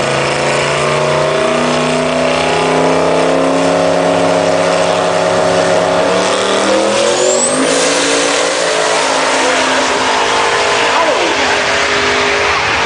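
Turbocharged Chevy drag-racing truck's engine running flat out down the strip, loud and steady, its note changing and falling about eight seconds in.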